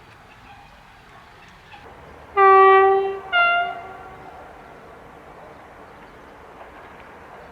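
Horn of a Romanian EA1-class electric locomotive sounding two blasts about two and a half seconds in: a longer one, then a shorter, slightly lower one.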